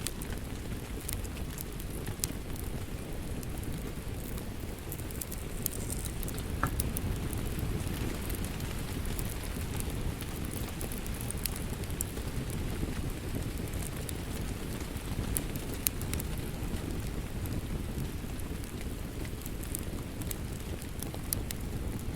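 Steady rain mixed with the irregular pops and crackles of a wood fire burning in a fireplace.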